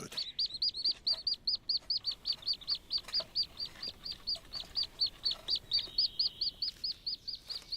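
Common goldeneye ducklings peeping: a rapid, even run of short high peeps, about five or six a second, without a break.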